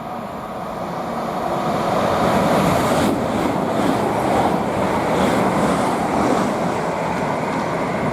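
A pair of Class 387 electric multiple units passing at speed. The rush of air and wheel noise swells over the first couple of seconds, turns brighter with a run of regular pulses from about three seconds in, and eases toward the end.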